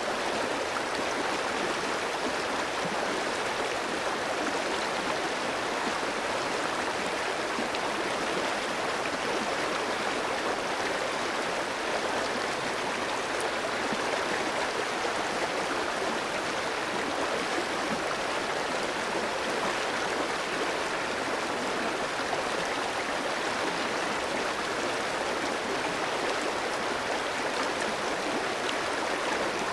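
Clear stream flowing over rocks: a steady, even rush of running water with no breaks.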